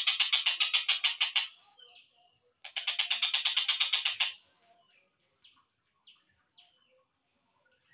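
Tengkek buto (kingfisher) rattling call, slowed down: a fast run of evenly repeated harsh notes, about a dozen a second. It stops about a second and a half in, starts again near the third second for another second and a half, and is followed by a few short faint chirps.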